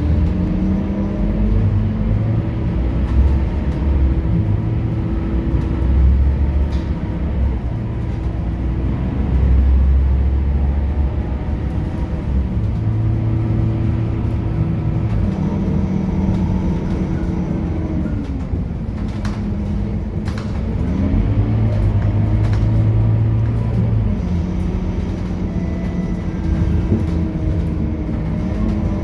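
Scania K230UB bus's diesel engine and ZF automatic gearbox heard on board while driving. The engine and transmission whine holds steady, then drops and climbs back in steps several times as the gearbox changes gear.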